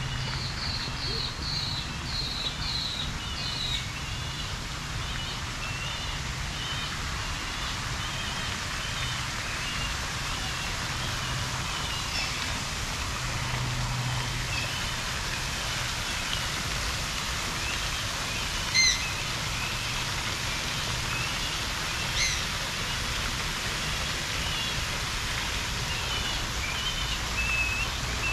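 Birds chirping and calling over a steady low background hum. A quick run of about eight repeated high notes comes in the first few seconds, many small chirps go on throughout, and two louder sharp calls come a few seconds apart past the middle.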